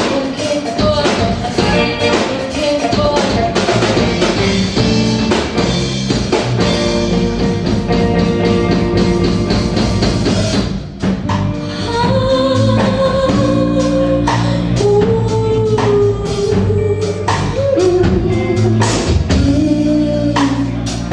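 Live band playing a song with drums and singing, with a brief drop in the music about eleven seconds in.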